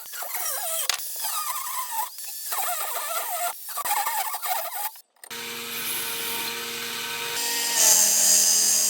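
Power tool working a steel bed-frame rail: a wavering metal squeal for about five seconds, then, after a brief break, a steady motor whine that shifts in pitch near the end.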